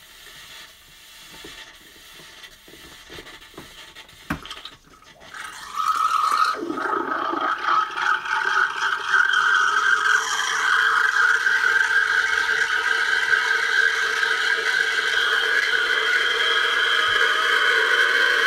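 Espresso machine's steam wand steaming milk. After a few faint clicks and a knock, a loud hiss with steady whistling tones starts about six seconds in and keeps going.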